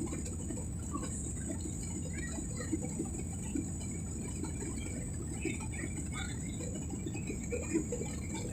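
Airliner cabin noise in flight: a steady low rumble of engines and airflow, with faint scattered short sounds over it.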